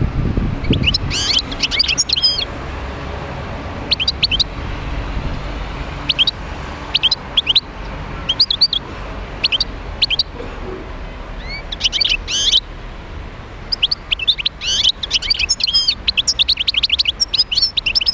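European goldfinch singing in bursts of fast, twittering, up-and-down notes, phrase after phrase with short pauses between; the last phrase runs longest. A low steady rumble sits underneath.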